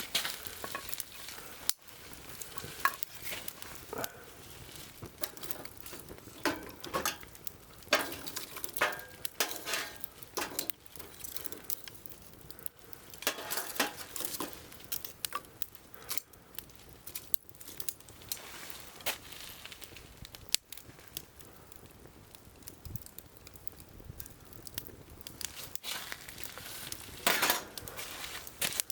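Wood fire burning in a long steel firewood grill, crackling with irregular sharp pops, mixed with a few short metallic clinks.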